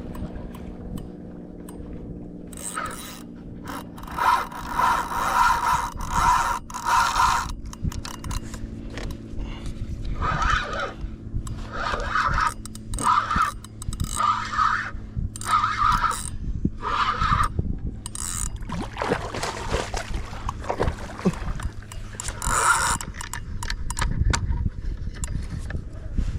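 Fishing reel buzzing in many short bursts, line going out or being wound in while a hooked fish is fought from a kayak.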